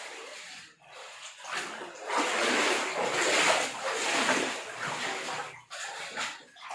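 Water splashing and sloshing in uneven surges, loudest in the middle.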